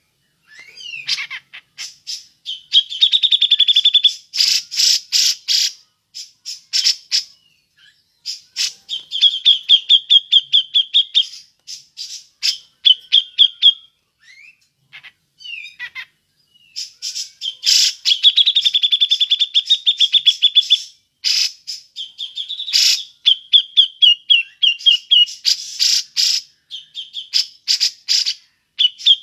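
Cucak jenggot bulbul calling in the 'ngepik' style: rapid trills of short repeated notes, each run a second or two long, broken by sharp, harsh single calls.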